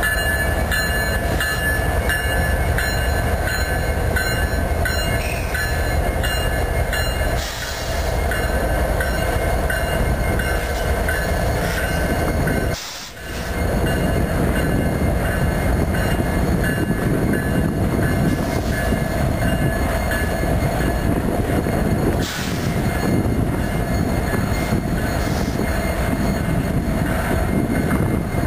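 CN freight train rolling past at close range: diesel locomotives and wheels on the rails making a steady loud rumble, with a steady high whine riding over it. The sound dips briefly about thirteen seconds in.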